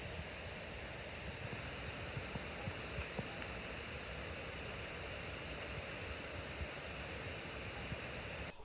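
Steady rushing of a waterfall, an even roar of falling water that cuts off suddenly near the end.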